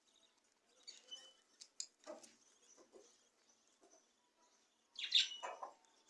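Budgies chirping in short scattered calls, with a few sharp clicks, and a louder burst of chirping about five seconds in.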